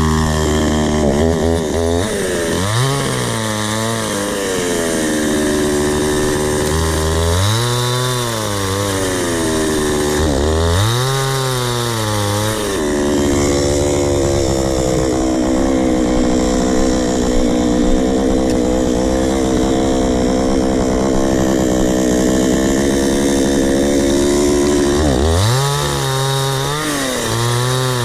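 Chainsaw revving up and dropping back several times, then held at steady throttle for about twelve seconds under the load of a cut through a blue gum log, revving up and down again near the end.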